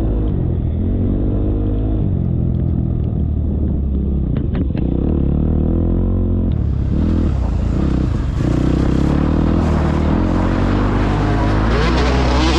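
KTM motocross bike's engine revving up and down as it is ridden around a track, the throttle cut briefly twice a little past the middle before it pulls at high revs again.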